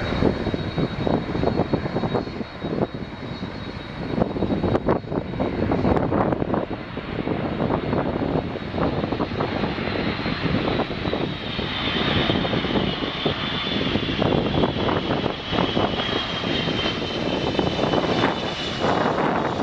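Airbus A330-300 airliner's jet engines during its landing, a steady loud rumble with crackle. A high engine whine slowly drops in pitch through the second half.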